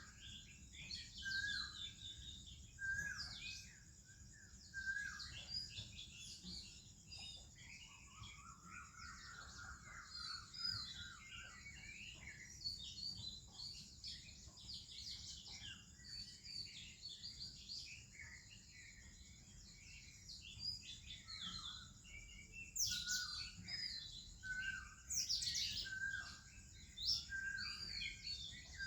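Morning birdsong from several birds at once: Oriental magpie-robin song mixed with other birds' chirps and whistles. One bird repeats a short note about once a second at the start and again in the last third, and a longer warbled phrase comes about a third of the way in.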